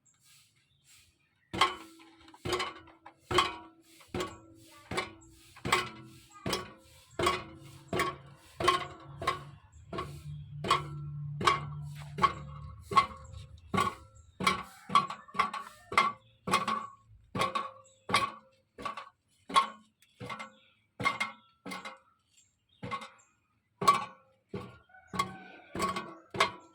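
Toyota Camry's exhaust resonator being jolted from under the car: sharp metallic clinks, one or two a second, each ringing briefly, starting about a second and a half in, with a low hum for a few seconds in the middle. The clanking comes from a rusted plate that has broken loose inside the resonator.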